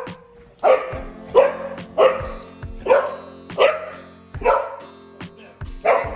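A dog barking repeatedly, about one bark every three-quarters of a second, over background music.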